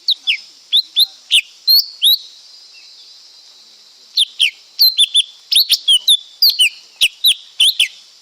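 Lesser green leafbird singing: two runs of quick, sharp whistled notes, each note sweeping steeply in pitch, the second run longer and faster. A steady high insect-like hiss runs beneath.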